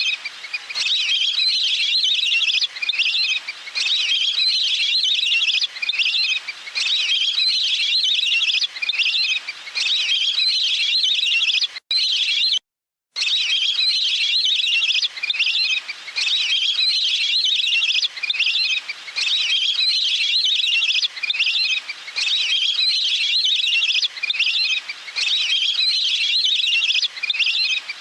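Recorded waterfowl calls played as a decoy lure: dense, continuous high chirping calls repeating with no pause. The sound cuts out completely for about half a second near the middle.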